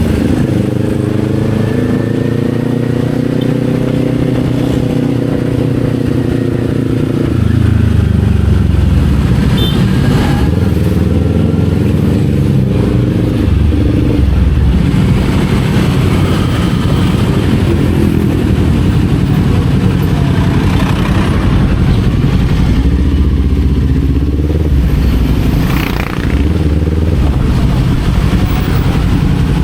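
Kawasaki Z400 parallel-twin engine running under way, its pitch rising and falling with throttle and gear changes. It gets louder about a quarter of the way in, and there is a brief dip in level near the end.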